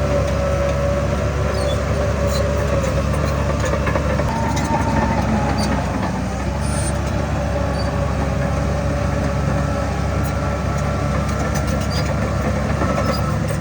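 Heavy diesel earthmoving machinery running steadily: a low engine drone under a steady whine, with scattered metallic clinks and scrapes.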